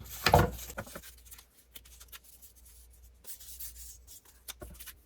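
Paper being handled: light rustling and soft taps and clicks as sheets and hinge strips are moved and placed, with a louder brief knock about half a second in.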